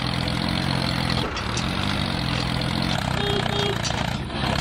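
A small engine running steadily, its pitch dipping and recovering slightly a couple of times.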